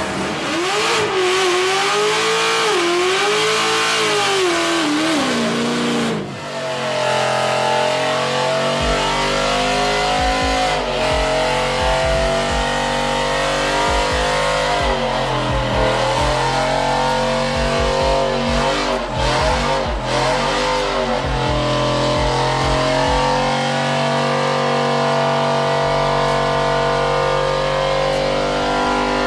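A truck doing a burnout: the engine is held at high revs while the tyres squeal, the squeal wavering up and down in pitch. There is a short break about six seconds in.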